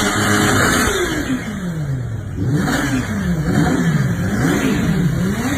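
Kawasaki Ninja H2's supercharged inline-four engine revving: held high, then falling away about a second in, then blipped up and down about four times in quick succession.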